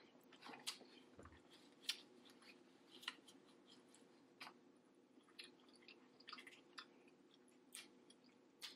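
Faint close-miked chewing of saucy seafood, with a dozen or so irregular wet mouth clicks and smacks over a low steady hum.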